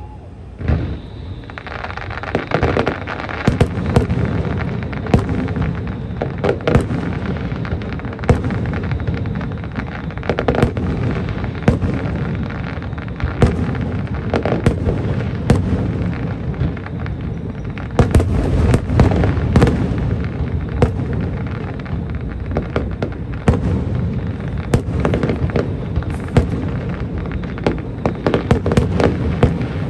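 Aerial fireworks display: a rapid, dense stream of sharp bangs and crackles over a continuous rumble, starting about a second in.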